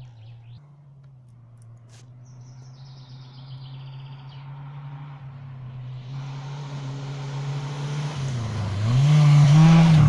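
Rally car approaching at speed, its engine note growing steadily louder; near the end the pitch dips and climbs again.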